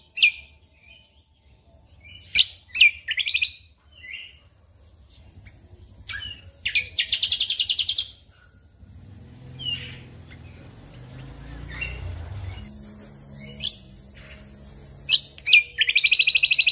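Cucak kombo (greater green leafbird) singing: sharp chirps and short whistled notes, broken by two fast rattling trills of rapidly repeated notes, one near the middle and one at the end.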